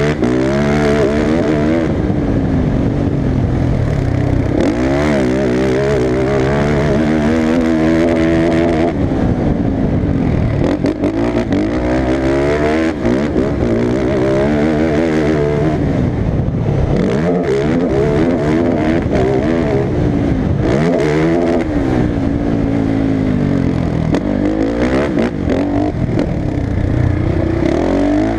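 Motocross race engine at high revs, its pitch climbing and falling again and again every couple of seconds as the throttle is worked and gears change around the track.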